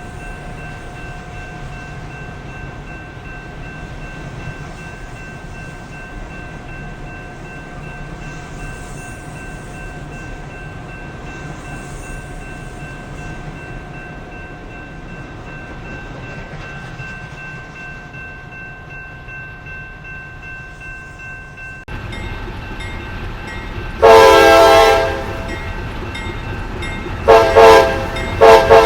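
A train running with a steady rumble and a constant high whine. After an abrupt change about three-quarters of the way through, a locomotive horn sounds one long loud blast, then two short blasts near the end.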